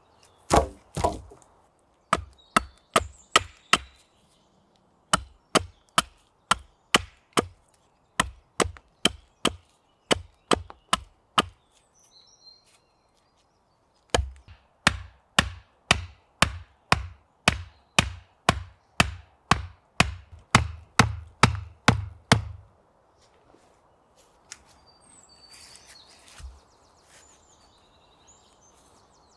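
Firewood being chopped with a blade: sharp wooden strikes about two a second, in runs of several seconds with short pauses. The chopping stops about three quarters of the way in.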